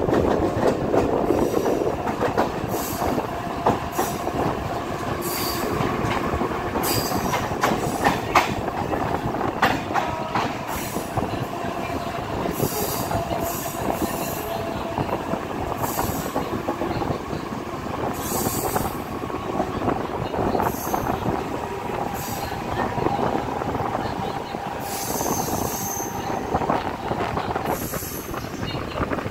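Mumbai suburban local electric train running at speed, heard from the carriage doorway: a steady rumble of wheels on rail, with a thin wheel squeal drifting in and out and high hissing screeches every second or two as it takes the curve, plus scattered clicks over the track.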